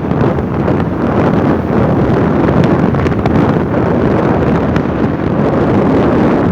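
Wind buffeting the microphone: a loud, steady, low rumbling noise that flutters but never breaks.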